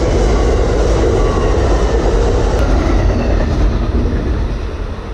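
Passenger train crossing a steel girder railroad bridge at close range: a loud, steady rumble of wheels and cars on the bridge, easing off slightly near the end.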